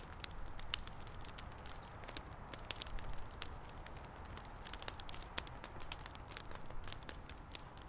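Bonfire crackling, with frequent irregular sharp pops over a low steady rumble.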